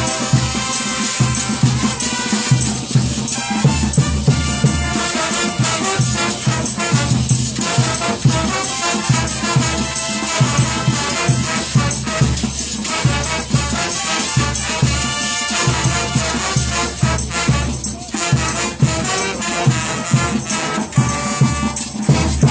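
Bolivian brass band playing cumbia: brass instruments carrying the melody over a steady, driving beat with rattling percussion.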